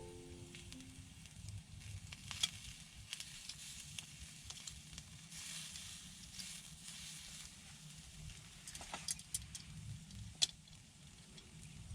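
Wood campfire crackling faintly, with scattered sharp pops, the loudest about ten seconds in, over a light hiss.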